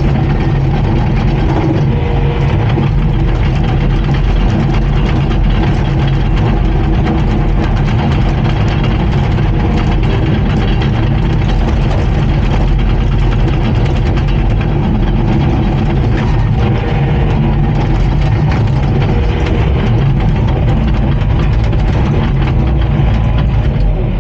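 Komatsu D39PX bulldozer's diesel engine running steadily and loudly.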